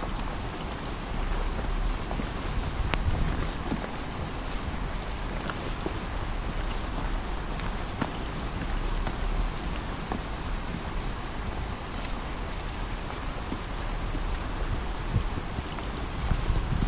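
Heavy rain pouring steadily onto pavement and the camera, with scattered sharp drop ticks.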